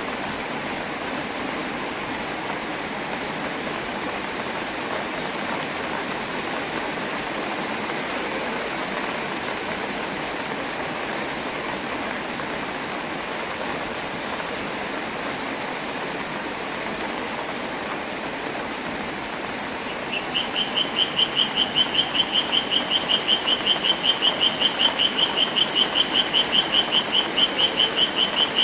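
Steady rain, an even hiss. About twenty seconds in, an animal starts calling over it: a fast, even series of high chirps, about five a second, louder than the rain.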